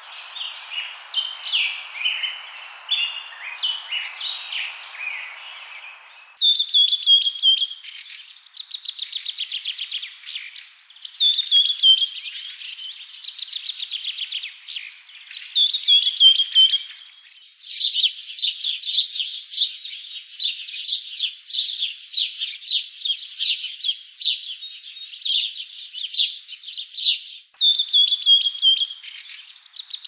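Songbirds singing and chirping. It opens with a jumble of chirps over a soft hiss. After about six seconds comes a repeated phrase: a falling whistled note followed by a fast trill. From about 17 seconds to near the end there is a run of rapid, continuous chirping, and the falling-whistle phrase returns near the end.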